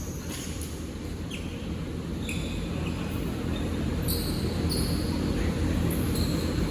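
Basketball shoes squeaking on a gym court, several short high squeaks, over a steady low hall and crowd rumble.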